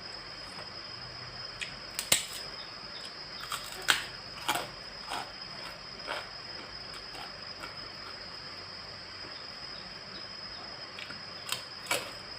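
A person eating: scattered sharp chewing and mouth clicks, several in a cluster a couple of seconds in and a few more near the end, over a steady hiss with a faint high whine.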